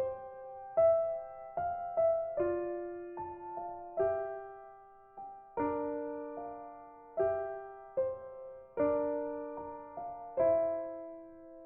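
Background music: a slow, gentle piano piece, single notes and chords struck about once a second and dying away.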